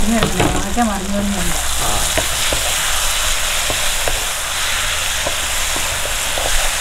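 Pieces of dried shark and bitter gourd sizzling in a little oil in an open pan as they are stirred, with scattered clicks of the spoon against the pan. The steady sizzle shows the curry's water has largely cooked off, leaving it frying in the oil.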